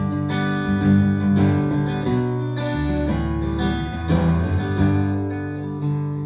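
Instrumental break in a live folk-rock song: acoustic guitar strumming chords over a moving low bass line, with no singing.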